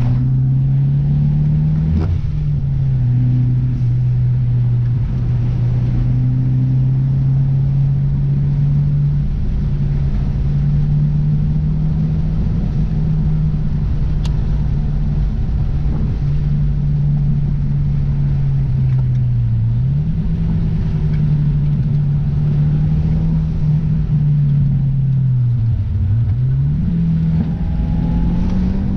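Car engine and road noise on the move: a steady engine drone whose pitch holds for most of the stretch, then dips and climbs back up twice in the last third as the driver eases off and gets back on the throttle.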